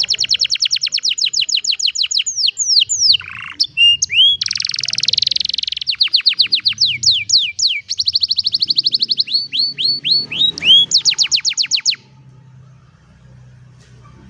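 Domestic canary singing: fast trills of rapidly repeated descending notes, about ten a second, switching to a new phrase every second or two. The song stops abruptly about twelve seconds in.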